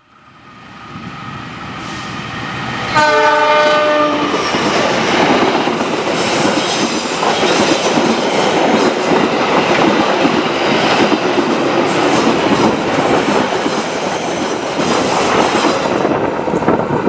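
A CC206 diesel-electric locomotive hauling a passenger train passes at speed. The rumble builds as it approaches, then the horn sounds once, a chord of several tones, for about a second, about three seconds in. The loud, steady noise of the locomotive and the coaches' wheels on the rails follows, with a thin high squeal for a couple of seconds late on, and it fades near the end as the train clears.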